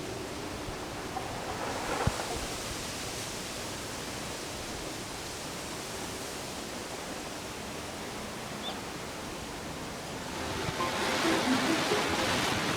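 Wind blowing, a steady rushing noise that swells into a stronger gust near the end.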